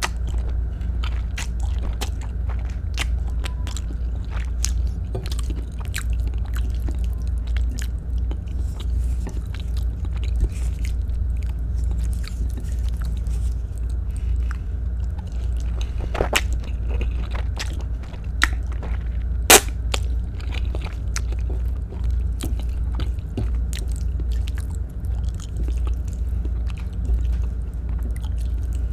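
A person chewing Filipino-style spaghetti close to the microphone: many small wet mouth clicks over a steady low hum, with two sharper clicks about three seconds apart past the middle.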